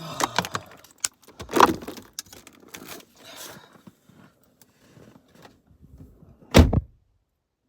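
Clicks, rustling and keys jangling as someone settles into a truck's cab. Near the end a vehicle door shuts with one heavy thump.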